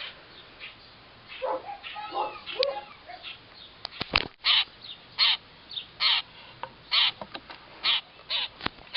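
Young hand-raised grackle calling: a series of short, harsh calls, about one a second through the second half. A couple of sharp clicks come about four seconds in.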